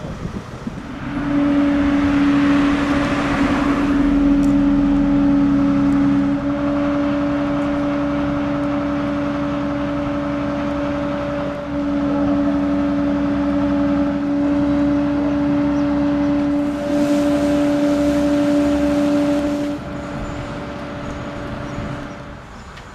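A motor running steadily at a fixed pitch, its level stepping up and down a few times, then dropping off near the end.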